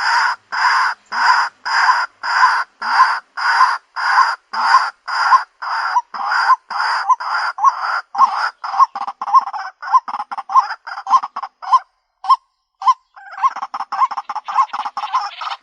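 White-breasted waterhen calling: a long run of loud, repeated harsh notes, slow and even at first, then speeding up into shorter, quicker notes. There is a brief pause about twelve seconds in, then the calls resume as a rapid stutter.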